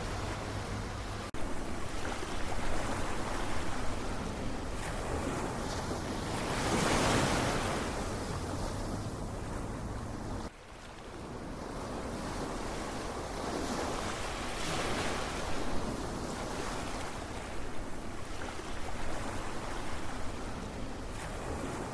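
Ocean waves breaking and washing in, a steady rush that swells with each wave every several seconds. The level drops out sharply for an instant twice: about a second in and about halfway through.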